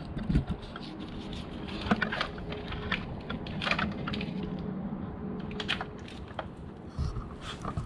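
Salvaged electric fan running with a steady hum after being plugged in, the sign that it works. Scattered clicks and knocks sound over it.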